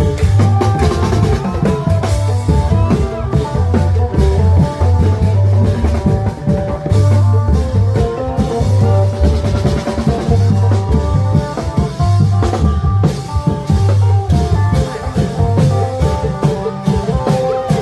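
Isan klong yao troupe playing a lively procession tune: long drums and other percussion keep a steady beat under a phin melody.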